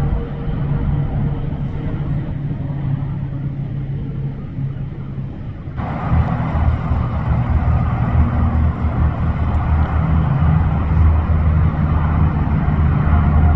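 Interstate highway traffic with trucks going by: a steady, loud rumble of engines and tyres. About six seconds in it switches abruptly to a louder, fuller rumble.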